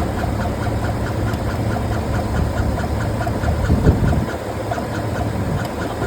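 Car driving with a weird rhythmic 'whoop whoop whoop' noise, pulsing several times a second like a dance beat over the low rumble of the road and engine. A brief louder low rumble comes about four seconds in.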